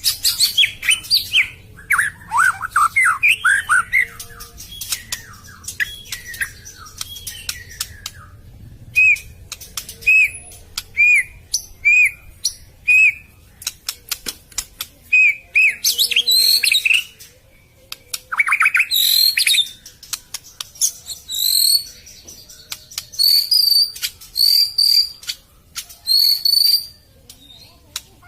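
White-rumped shama (murai batu) singing: varied whistled phrases mixed with sharp clicks. In the middle comes a run of repeated whistles about one a second, and near the end a series of higher repeated notes.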